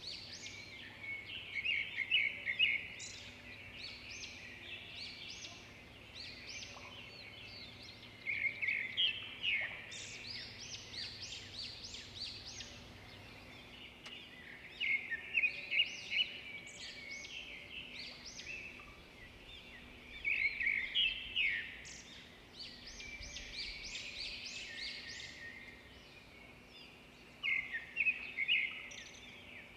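Zebra finches chirping and calling in quick bursts of high notes every few seconds, over a faint steady hum.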